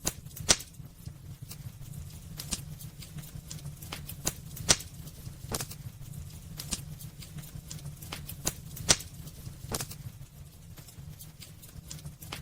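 Burning wood crackling in a fireplace: irregular sharp pops and snaps, the loudest about half a second, four and a half and nine seconds in, over a low steady rumble.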